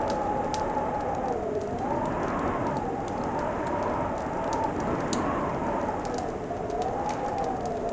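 Fireplace fire crackling with scattered sharp pops over a steady hiss, under a low howl that slowly rises and falls, like winter wind.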